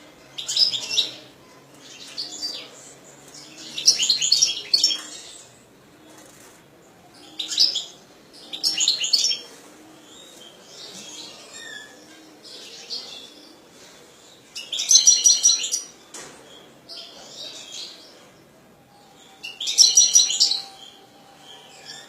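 European goldfinch singing: several short, high song phrases, each a second or so long, broken by pauses of a few seconds.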